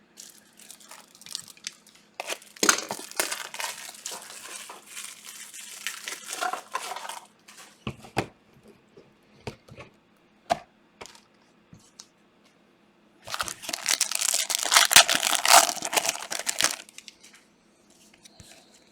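Trading-card pack wrappers being torn open and crinkled by hand, in two long bouts with scattered light clicks and rustles between them.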